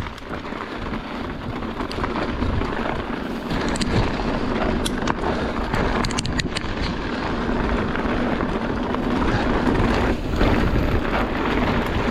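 Wind rushing over the microphone and tyres rolling on a dirt trail as a mountain bike is ridden fast, slowly growing louder. A few short clicks and rattles from the bike come through around the middle.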